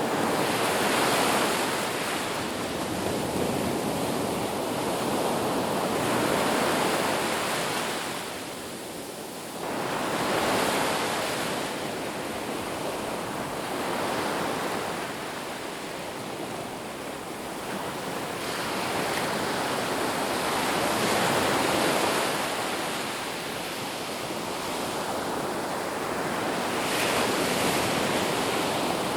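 Ocean waves breaking on a beach, a continuous rushing surf that swells and subsides every few seconds.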